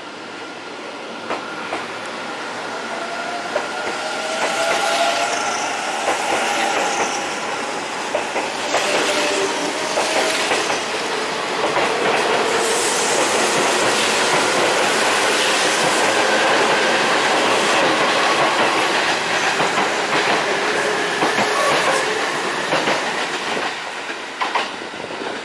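Electric commuter trains running past close by: steel wheels clattering over rail joints and points, with a faint whining tone running through it. The sound builds over the first few seconds, stays loud, and dies away near the end.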